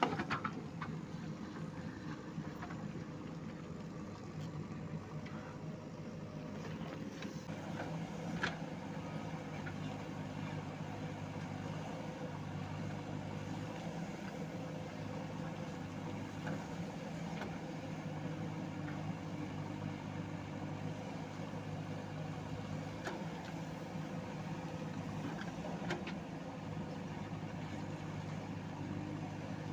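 Diesel engine of a JCB backhoe loader idling steadily, with a few sharp knocks now and then.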